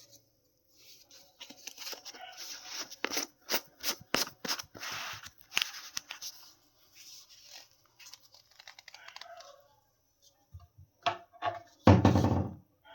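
Packaging being handled and torn open: crinkling, tearing and sharp clicks come in quick bursts for several seconds, then thin out. Near the end there is a single loud thump.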